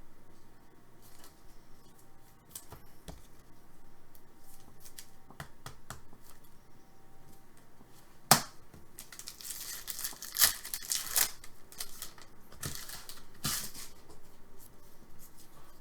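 Hockey card pack wrapper being torn open and crinkled by hand, with light clicks of cards being handled. There is one sharp click about 8 seconds in, then a few seconds of rustling and tearing.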